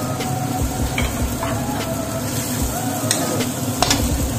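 Chickpeas (chana) sizzling in hot oil in a pan as they are stirred, with the spoon clicking and scraping against the pan now and then.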